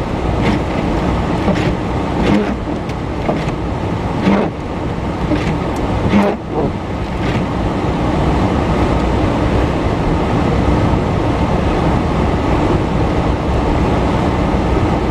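Car driving on a wet, slushy road: steady tyre and road noise, with a few short knocks in the first six seconds.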